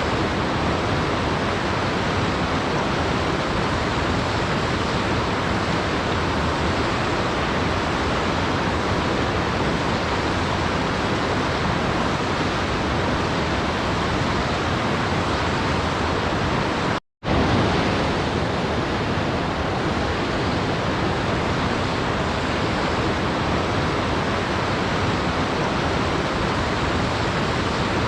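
Steady rushing of a waterfall, an even hiss across low and high pitches, broken by a split-second dropout to silence about two-thirds of the way through.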